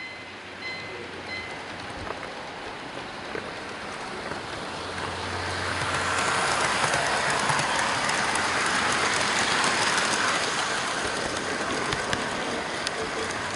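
An HO-gauge model freight train's wheels rolling along the layout's track, heard from a camera riding on one of its container wagons. The steady rolling noise grows louder about five to six seconds in.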